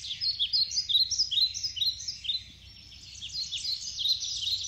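Birds chirping: many short, high, downward-sliding calls overlapping, thinning briefly about two and a half seconds in.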